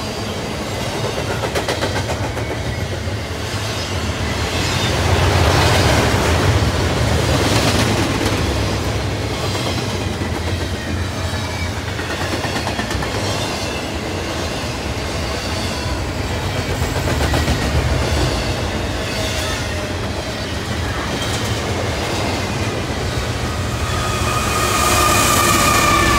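Double-stack intermodal well cars rolling past at speed: steady wheel-on-rail rumble with clickety-clack over the rail joints, and a high wheel squeal near the end.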